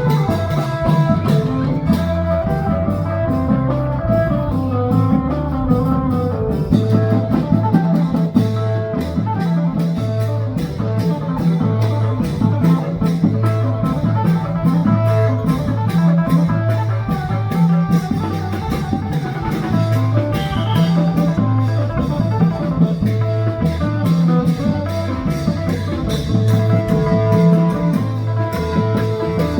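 Upbeat Thai procession band music: plucked guitar melody over drum kit and bass, with a steady fast beat.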